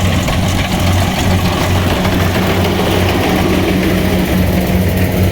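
Kubota rice harvester's engine running steadily under load, a continuous low hum with machinery noise over it.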